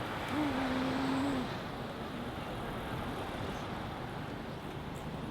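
Steady city street and traffic noise. About half a second in, a single steady tone sounds for about a second.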